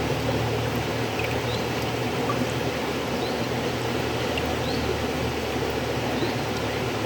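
River water flowing: a steady rushing noise with a low rumble beneath it and faint, short, high chirps now and then.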